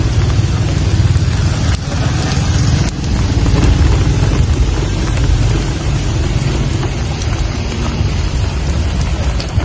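Steady rain falling, with scattered drop ticks over a constant deep low rumble.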